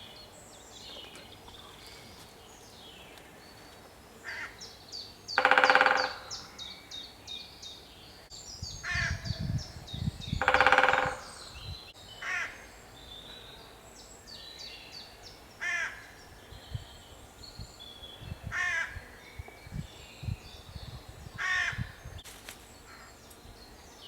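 Woodland birdsong: small birds sing high, quickly repeated phrases throughout. Two loud, harsh calls come about five and ten seconds in, with shorter calls between.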